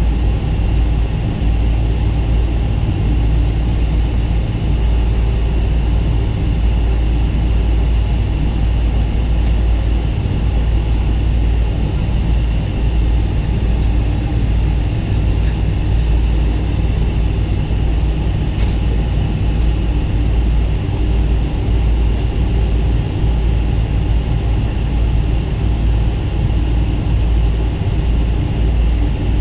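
Steady jet engine and airflow noise inside the cabin of a Boeing 777-200, heard from a window seat: a loud, even rumble with a faint steady hum above it, holding the same pitch and level throughout.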